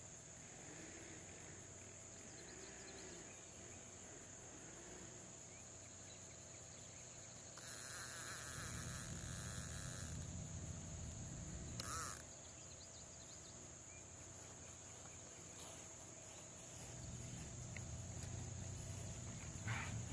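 Faint, steady, high-pitched trilling of crickets and other insects. A few seconds of rustling hiss come about eight seconds in, a short noisy burst near twelve seconds, and a low hum underneath in the second half.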